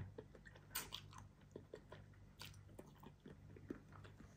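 Faint chewing of a mouthful of ketchup-sauced yakisoba noodles: soft, wet mouth clicks, with a couple of sharper ones about a second in and halfway through.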